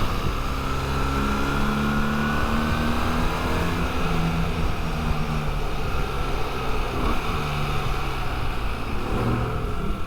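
Motorcycle engine running under way, its pitch stepping up and down with throttle and gear changes.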